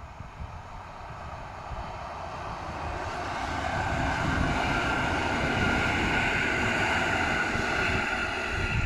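Regional passenger train approaching and growing steadily louder, with a steady whine rising over the rumble of the running gear as it nears.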